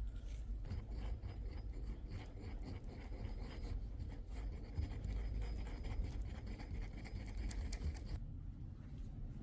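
Light scratching and rubbing in quick, irregular strokes, as of hand work on a surface, stopping about eight seconds in.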